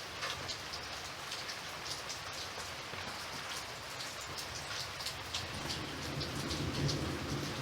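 Steady rain falling, with scattered sharper drop ticks. A low rumble of thunder starts to build in the last couple of seconds.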